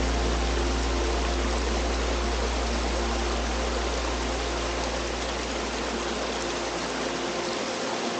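Brook waterfall cascading, a steady rush of water, with soft held music notes underneath; a low bass note fades out near the end.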